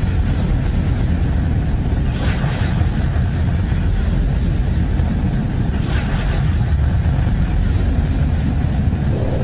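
Deep, steady rumbling roar with a hiss above it, swelling brighter briefly about two seconds in and again about six seconds in: a sonified space recording of the kind presented as a planet's sound.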